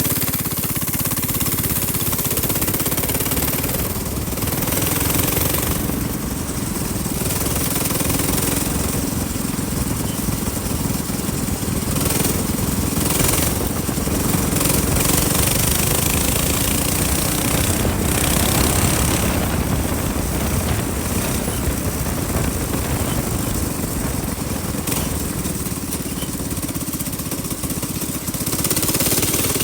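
Small minibike engine running steadily under way, its rapid firing pulses carrying throughout, with wind rushing over the microphone.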